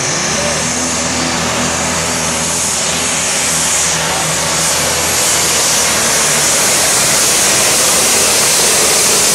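A competition pulling tractor's engine running flat out during a pull: a steady, loud, high-pitched engine and turbo scream that swells slightly partway through.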